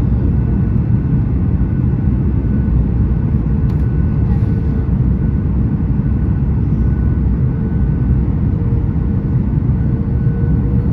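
Steady low rumble inside the cabin of a Boeing 737 MAX 8, with a faint steady hum from its CFM LEAP-1B jet engines.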